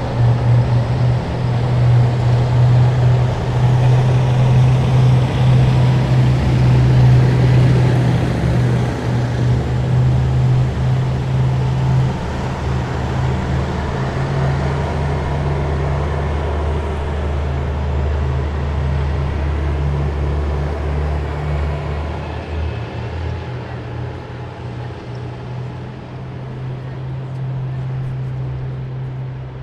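Heavy military vehicles driving past in a column, their diesel engines running with a deep, steady drone and tyre noise. Loudest about a quarter of the way in, it eases off in the last third as the vehicles move on.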